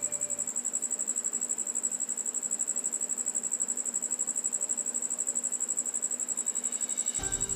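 A continuous high-pitched insect trill, pulsing rapidly and evenly, with the background music dropped out until near the end.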